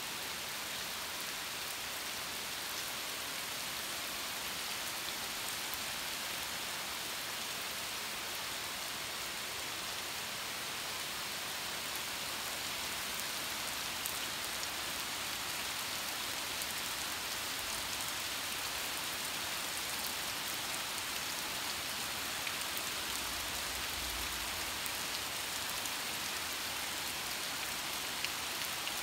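Steady rain falling on a wet paved road and grass: an even hiss with scattered sharp ticks of single drops.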